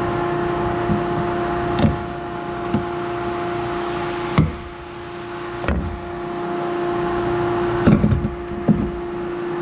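Combine running with a steady hum, with six or so sharp knocks and clicks scattered through it and a quick cluster of them near the end.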